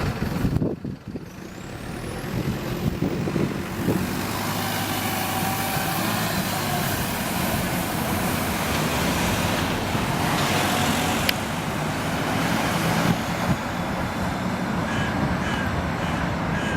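Optare Solo single-decker bus running, heard from on board: a steady engine hum under broad road noise, with a brief rising high-pitched glide in the first few seconds and a single sharp click about two-thirds of the way through.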